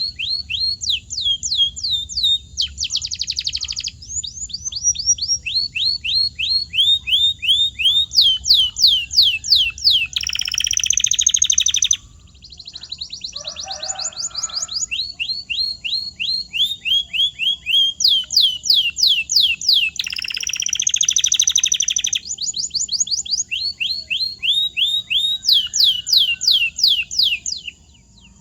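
Domestic canary singing: rapid trills of repeated down-sweeping notes, broken twice by harsher buzzing rolls.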